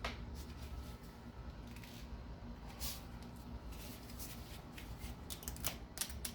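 Scattered small clicks and short scrapes of hand tools and a rubber coolant hose being worked loose from its fitting on a VG33E engine, with a cluster of clicks about five seconds in.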